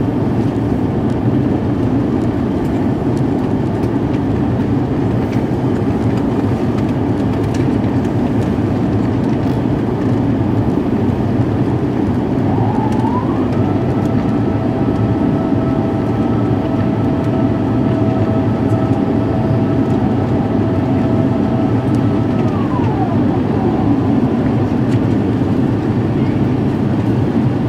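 Steady cabin noise of an Airbus A350-900 with its engines running, a loud even rumble and rush of air. About halfway through, a mechanical whine rises, holds for around nine seconds, then winds back down.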